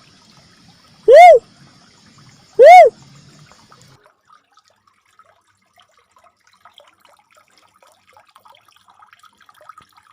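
Uncal merah cuckoo-dove call used as a bird lure: two loud, short whoops that rise and fall in pitch, about a second and a half apart, in the first three seconds. Only faint background follows.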